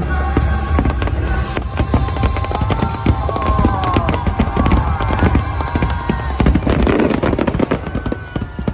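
Fireworks bursting in rapid succession, a dense run of cracks and bangs over a low rumble, with music playing alongside.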